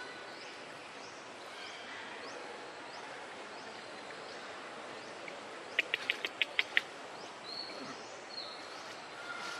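Outdoor ambience with a steady hiss and scattered bird chirps. About six seconds in, a bird gives a quick run of about eight sharp, loud notes in under a second.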